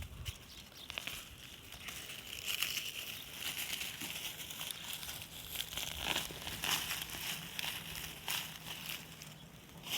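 Irregular rustling, crinkling and crackling of dry potato plants and soil being handled during a potato harvest, with a faint low hum under it for a few seconds mid-way.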